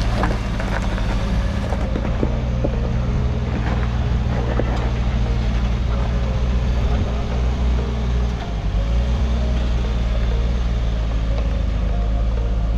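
Suzuki Jimny's engine running under load at low speed as the 4x4 crawls up a rock step, with scattered knocks. The engine note dips briefly about eight seconds in, then picks up again.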